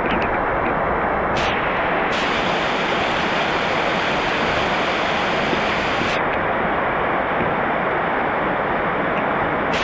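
Heavy rain falling steadily, a dense even hiss. For a few seconds in the middle it sounds brighter and hissier.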